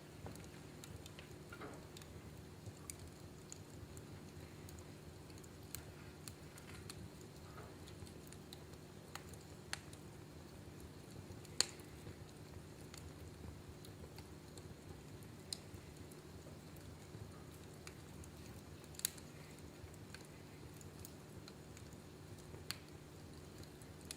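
Wood fire in a fireplace crackling: scattered sharp pops and snaps at irregular intervals, the loudest about halfway through and again later, over a faint steady low hum.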